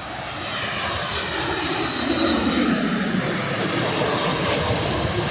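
Boeing 737 MAX jet airliner on final approach passing low overhead. Its engine noise swells to a loud peak, with a tone that drops in pitch as it goes over.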